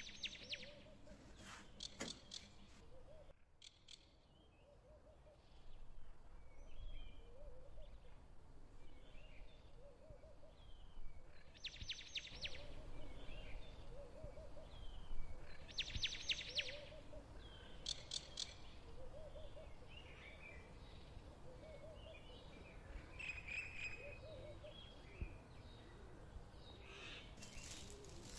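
Birds chirping and calling faintly in the background, with short scattered chirps and a few brief clusters of clicks.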